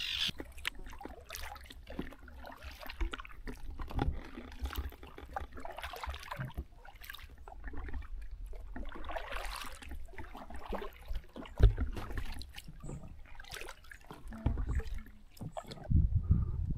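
Paddles dipping and splashing in river water as a boat is paddled along, with a single sharp knock about halfway through.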